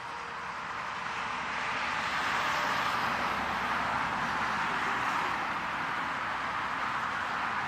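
Car driving, a steady rush of road and wind noise that builds over the first couple of seconds and then holds.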